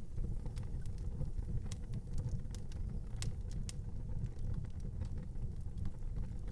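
Wood fire burning in an outdoor fireplace: a steady low rumble of the flames with irregular sharp crackles and pops from the burning wood, the loudest pop about three seconds in.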